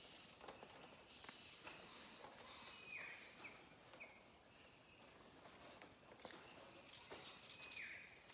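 Near silence: faint short falling chirps of a bird about three seconds in, twice more soon after and again near the end, with light clicks of barbed wire being wound onto a wire ball.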